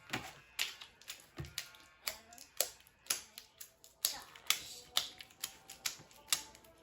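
Sticky, half-set glue slime being squeezed and kneaded by hand, giving irregular sharp wet clicks and pops, about three or four a second.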